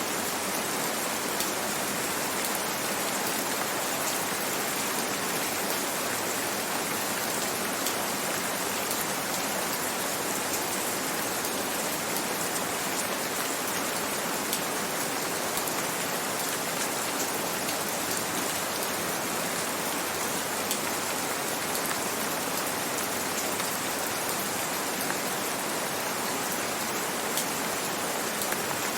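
Steady gentle rain: a dense, even hiss with faint scattered drop ticks.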